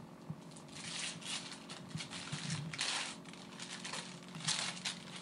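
Gift wrapping paper crinkling and rustling in several short bursts as a present is handled and unwrapped.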